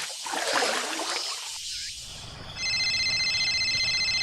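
A high electronic trilling tone, rapidly pulsing and ringtone-like, starts about two and a half seconds in and holds steady.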